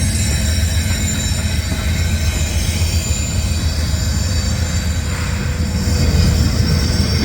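Intermodal freight train rolling past close by: a steady heavy rumble of wheels on rail, with thin high-pitched wheel squeal that fades after a few seconds.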